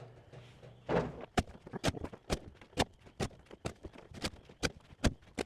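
A steady run of sharp knocks, about two a second, starting about a second in: rotting wood debris being scooped out of an old pickup's bed.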